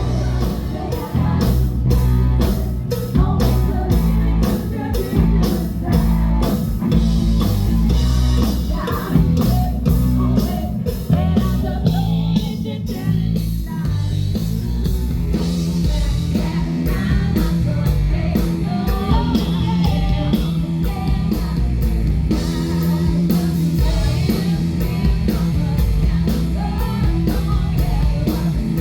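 A live rock band playing loudly: drum kit keeping a steady beat under electric guitar and bass, with a singer's voice over the top.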